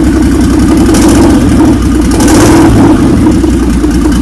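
Nissan L28ET turbocharged 2.8-litre straight-six, fitted in a Datsun 260Z, running steadily on its first start-up.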